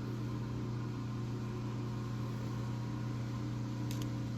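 Steady mains-frequency hum of an electric motor in a machine shop, with one light click near the end.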